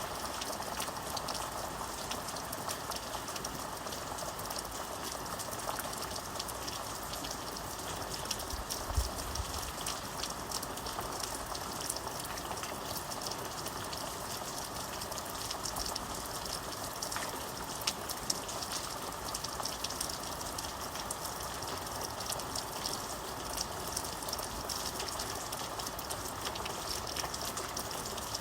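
Steady rain falling, with many fine drop ticks over an even rushing hiss, and a brief low thud about nine seconds in.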